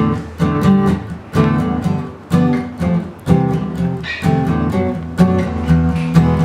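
Acoustic guitar strummed in a steady, accented pattern of sharp chord strokes: the instrumental intro of a tango-style song.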